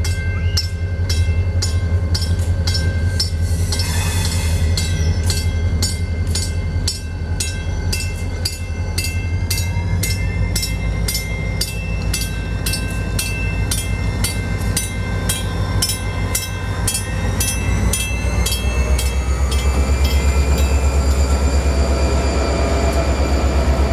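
A train running on rails: wheels click over the rail joints about twice a second over a steady low engine drone. Near the end the drone drops lower in pitch and grows louder.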